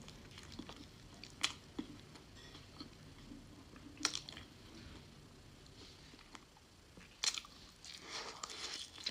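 A person chewing and biting food, faint, with three sharp clicks spread through it and a busier run of eating noises near the end.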